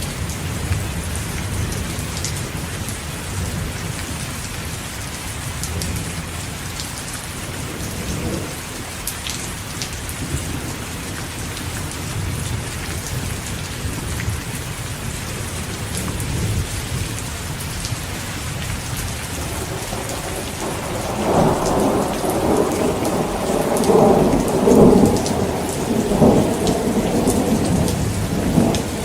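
Heavy rain falling steadily, with thunder rumbling low and a louder roll of thunder swelling and rumbling for several seconds in the last third.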